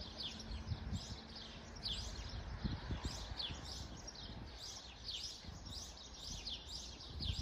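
Small birds chirping in the background: many short, high, quick chirps repeating every fraction of a second, over a faint steady background noise.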